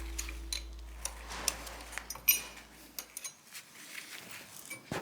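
Scattered light metallic clinks and taps of tools and metal parts being handled during engine removal work, over a low music note that fades out about three seconds in.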